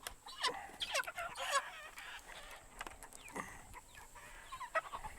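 Cornish cross meat chickens calling: many short chirps and clucks from several birds, one after another.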